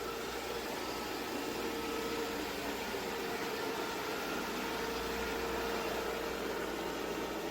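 ECOVACS Deebot X9 Pro robot vacuum running, a steady whir with a hum in it from its suction fan and brushes.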